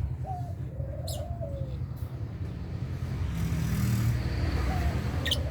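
Lovebirds in a colony cage giving a few short, sharp chirps, along with lower gliding calls, over a steady low rumble.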